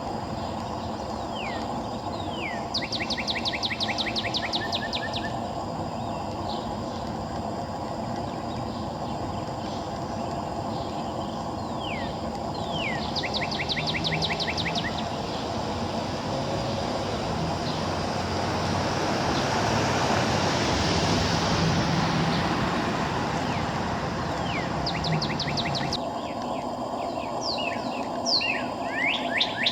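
A songbird singing short phrases, each a few down-slurred notes followed by a fast trill, repeated several times over a steady hum of distant traffic. About two thirds of the way through, a passing vehicle swells and fades.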